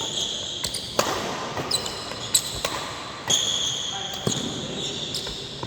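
Badminton rally: rackets striking the shuttlecock with sharp hits, roughly one a second. Shoes squeak on the court floor between the hits.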